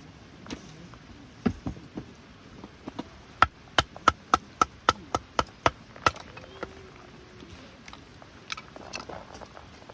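A quick run of about ten sharp strikes, about four a second, each with a short ringing tone, with a few scattered knocks before and after.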